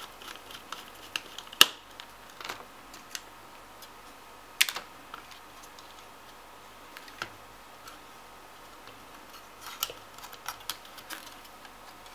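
Scattered small clicks and taps of a screwdriver and small screws as a graphics card's cooling fan is screwed back in place, with the sharpest clicks about a second and a half in and near five seconds.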